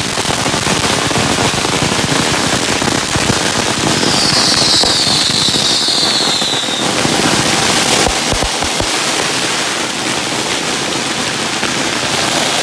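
Consumer firework going off with dense, continuous crackling and popping for the whole stretch. Near the middle a high whistle sounds for about three seconds, sliding slightly downward in pitch.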